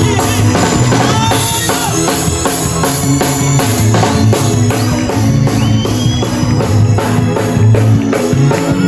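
Live worship band music with a steady drum-kit beat and bass, with singing over it.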